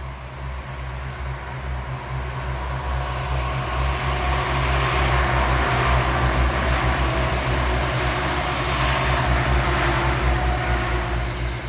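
A train running past at close range, its noise swelling over the first few seconds and then holding steady over a low rumble.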